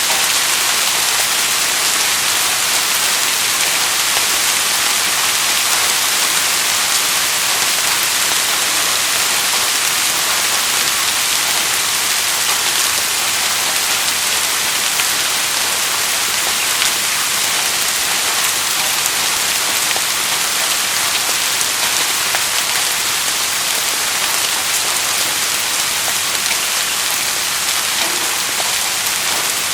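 Steady rainfall: a constant hiss of rain falling on surfaces, with many small drop patters mixed in.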